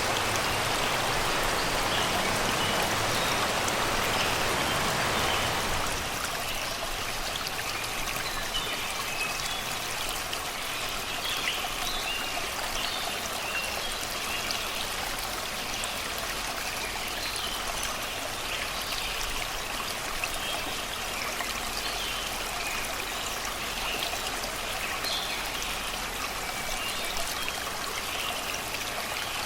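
Shallow river water rushing and babbling over rocks, louder for the first six seconds and then softer, with songbirds chirping from about eight seconds in.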